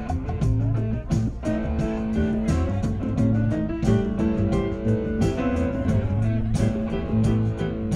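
Live band playing an instrumental passage with a guitar to the fore over a steady beat.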